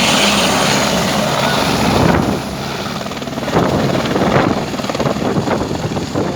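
Helicopter running nearby, its rotor and turbine making a loud, steady noise that drops in level a little over two seconds in.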